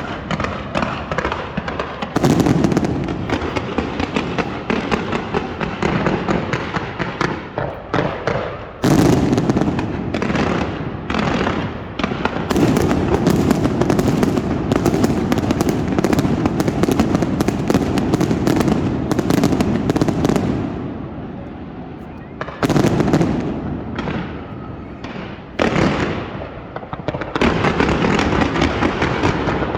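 Fireworks display: dense, rapid crackling and popping with repeated loud bursts of shells going off, easing briefly about two-thirds of the way through before new volleys start.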